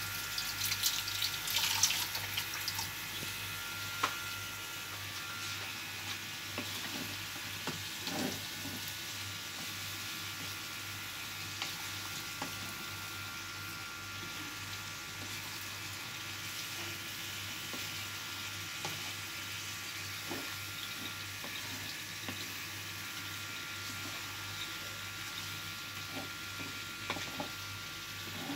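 Chicken pieces sizzling in a pan of onion, tomato, spice and yogurt paste, crackling most in the first couple of seconds, with a wooden spatula stirring and knocking against the pan now and then. A steady low hum runs underneath.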